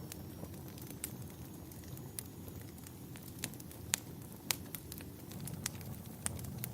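Campfire burning with a steady low rumble and irregular sharp crackles and pops from the burning wood, a few louder pops in the middle.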